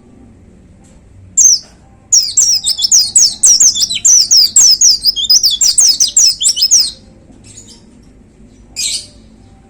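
White-eye (pleci) singing: a single short note, then a rapid burst of quick, high, downward-sweeping whistled notes lasting about five seconds, and one more short note near the end.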